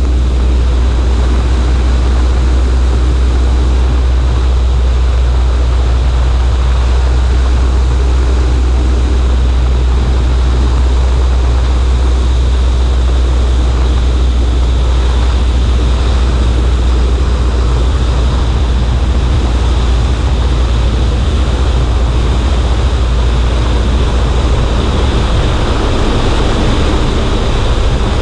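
Cessna 140A light aircraft's engine and propeller running steadily, with a deep drone and a constant rush of wind noise over the wing-mounted microphone.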